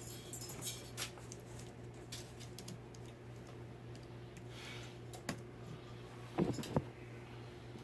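Scattered light clicks and taps of small fan parts being handled during assembly, with a short cluster of louder knocks near the end, over a steady low hum.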